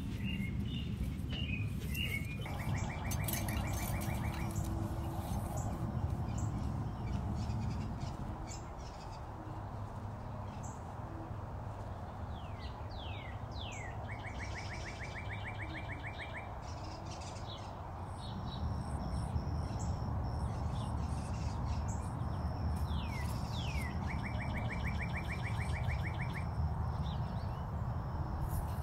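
A songbird singing outdoors: a few quick down-slurred notes followed by a fast, even trill, repeated three times about ten seconds apart, over a steady low rumble.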